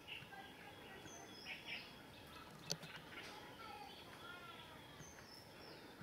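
Small birds chirping and twittering, with many short high notes and a couple of quick falling calls. A single sharp click about two and a half seconds in.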